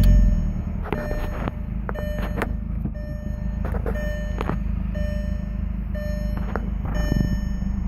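VW Jetta MK4's 1.8-litre turbo four-cylinder (AWP) engine idling steadily after a loud start at the very beginning, with the car's warning chime beeping about once a second.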